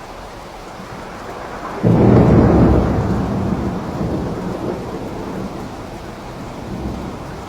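Steady rain with a clap of thunder about two seconds in, a sudden low rumble that fades away slowly over the next few seconds.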